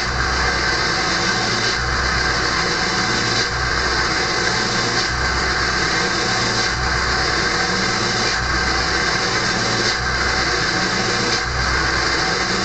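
Early 1999 Ford F-250's 7.3L Power Stroke V8 turbodiesel at cold high idle with the exhaust back pressure valve closed, whistling loudly through a straight-pipe exhaust. The valve is shut to build back pressure and speed warm-up, and the whistle is the sign that it is closed. The low rumble swells about every one and a half seconds.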